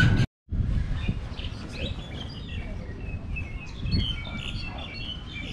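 Many small birds chirping in short, scattered calls over a steady low hum of outdoor background noise.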